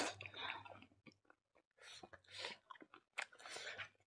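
Close-up chewing and mouth smacking of people eating chicken curry with rice, coming in irregular bursts with short pauses between.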